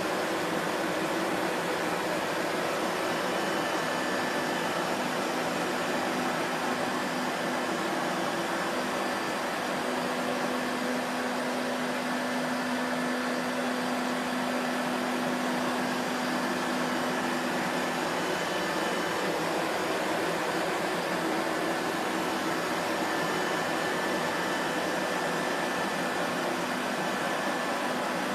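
Vacuum cleaner motor running continuously with a steady whooshing hiss and a faint motor hum that wavers slightly.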